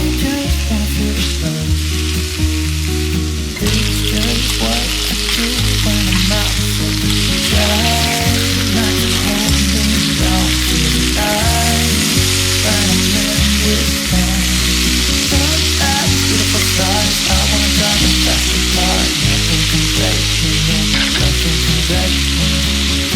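Food sizzling as it fries in a pan, a steady hiss that grows fuller about three and a half seconds in, over background music with a changing bass line.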